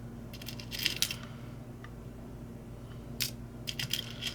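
Small metal drill bits clinking and clicking as they are picked up, tried and set down, in short clusters about a second in and again near the end, over a faint steady low hum.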